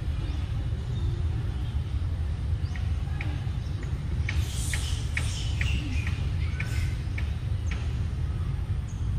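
A steady low rumble, with birds chirping in short, high notes from about three seconds in until near the end.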